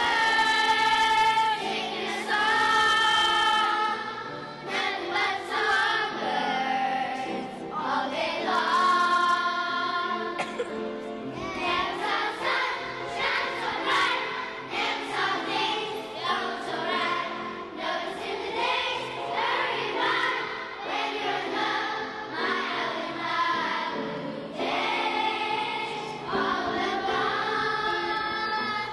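Children's choir singing with piano accompaniment. Long held notes near the start, around nine seconds in and near the end alternate with quicker moving phrases in between.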